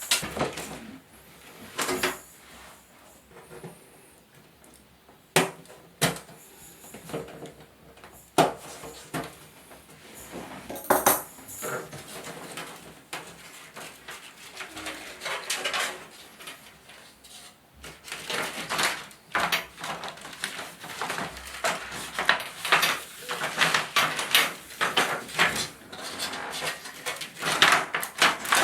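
Hard metal and plastic parts of a flat-screen TV being handled during disassembly: scattered clinks and knocks, turning into a quick, busy run of clicks and taps in the second half.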